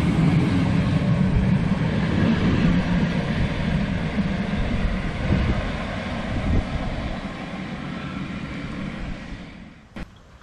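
Polregio SA138 diesel multiple unit pulling away, its engine and running noise fading steadily as it goes, with a sharp click about ten seconds in.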